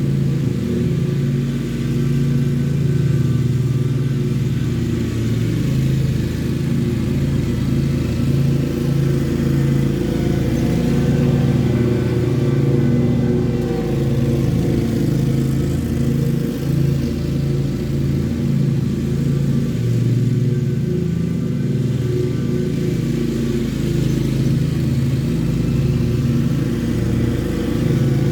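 Lawn mower engine running steadily under load while mowing grass, with small rises and dips in its note.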